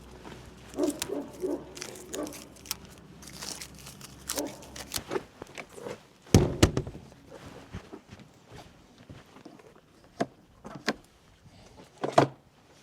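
Scattered clicks, knocks and clunks of things being handled, with a heavy thump about six seconds in and a sharp knock near the end. A faint low hum underneath stops about five seconds in.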